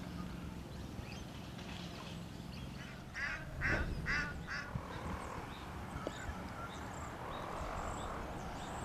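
A bird gives four short, loud calls in quick succession a little over three seconds in, with faint chirps from small birds around it.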